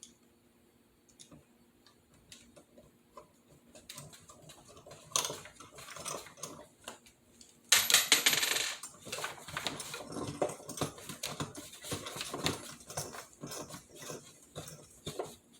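Small metal parts being handled: screws and a metal blind bracket clinking and rattling, with scattered light clicks and a louder second of rattling about halfway through.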